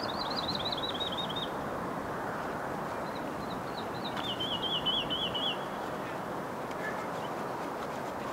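A small songbird singing two short, rapid trilled phrases, the first at the start and the second about three seconds in, each a quick run of repeated notes that drops slightly in pitch. A steady background hiss runs underneath.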